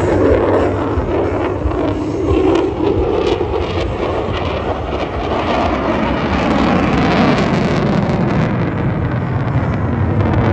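Aircraft flying past, a loud, continuous engine noise with a falling sweep in the second half as it goes by.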